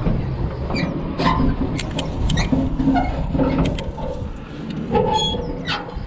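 Bag of clothes being pushed and forced through the drop hatch of a clothing bank: repeated knocks and clatter of the hatch, with a few short squeaks, over a low rumble.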